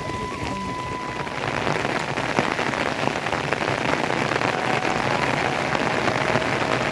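Rain falling steadily on a surface, a dense patter of drops that grows louder about two seconds in.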